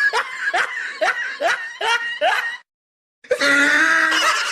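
A person's laughter meme sound effect: a run of short, rising snickering laughs about twice a second that stops about two and a half seconds in. After a brief silence, a loud voice starts the next clip near the end.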